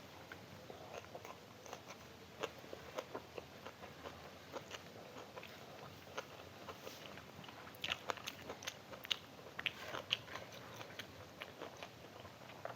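Close-up eating sounds: chewing and crunching, mouth clicks and smacks in a quick irregular run, denser and louder in the second half.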